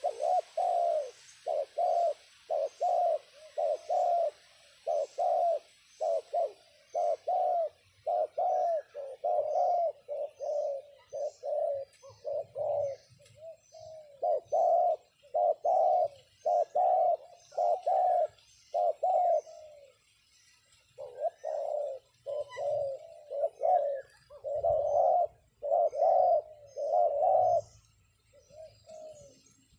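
Spotted doves cooing: a long run of low coo notes, about two a second, broken by short pauses near the middle and near the end. Faint high chirps from small birds sit behind them.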